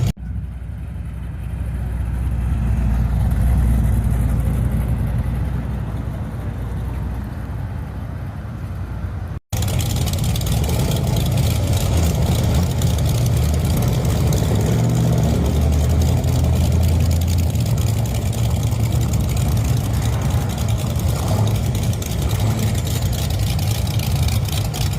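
Car engines running with a deep, steady low rumble as cars cruise by. The sound drops out briefly about nine seconds in, then the rumble carries on.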